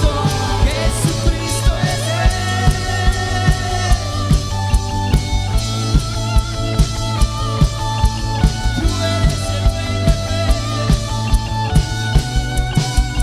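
Rock-style worship band music played without vocals: guitar melody lines over bass and a steady drum beat of about two hits a second.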